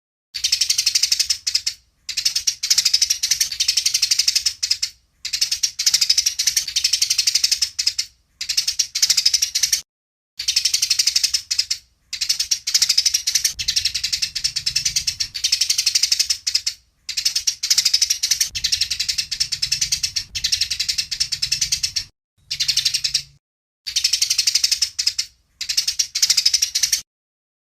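Eurasian tree sparrows chirping rapidly in a fighting bout. The calls come in about ten runs of quick chirps, each a second or a few seconds long, separated by brief gaps.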